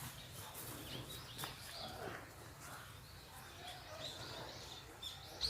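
Small songbirds chirping: short, high calls scattered throughout.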